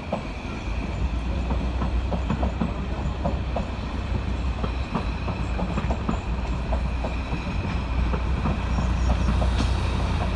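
Narrow-gauge train hauled by an Mk45 diesel locomotive running along the track: a steady low rumble with frequent wheel clicks over the rail joints.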